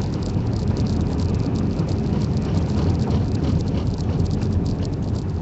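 Vehicle driving slowly on a snow- and ice-covered road, heard from inside the cabin: a steady low rumble of engine and tyres with a constant patter of small clicks.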